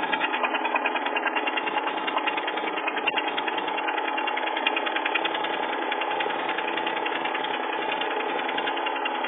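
Pressure washer's small gasoline engine running on choke just after a cold start, pulsing a little at first and then settling into a steady run.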